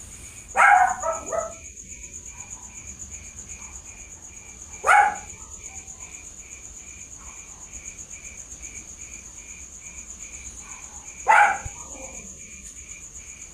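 A dog barking: a quick run of three or four barks about half a second in, a single bark around five seconds, and another near the end. Under it, night insects keep up a steady high trill and a chirp about three times a second.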